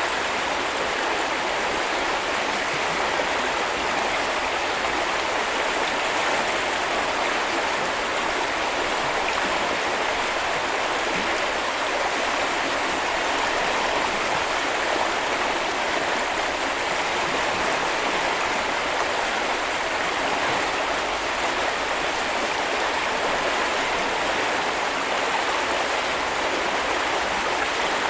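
Steady rushing of a river stream flowing over rocks, an even, unbroken water noise.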